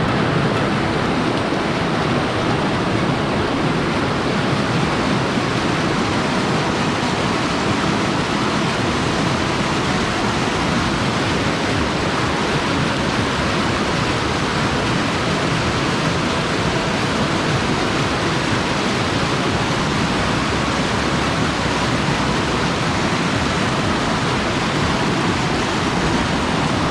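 Loud, steady rush of a mountain stream's flowing water.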